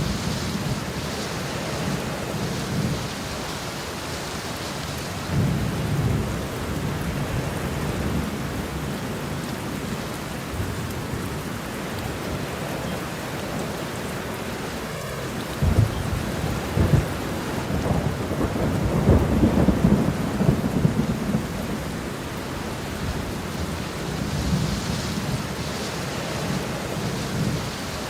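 Steady rain with rolling thunder: low rumbles swell around five seconds in, and a longer, stronger peal from about sixteen to twenty-one seconds.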